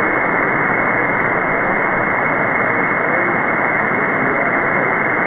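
Shortwave receiver static: steady band noise on the 20-metre amateur band in upper-sideband mode, heard through the receiver's narrow voice passband, with only faint wavering traces of weak signals in it. The heavy noise is the sign of poor band conditions during a major geomagnetic storm.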